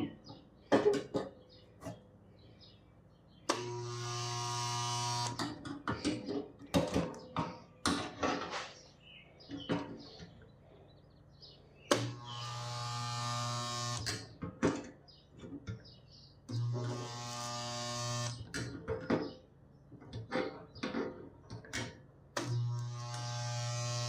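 Electric tack welder buzzing in four bursts of about two seconds each, a steady electrical hum with a hiss over it, as it tacks a steel reinforcing band onto rusted tractor sheet metal. Between the bursts come scattered clicks and knocks of the metal being handled.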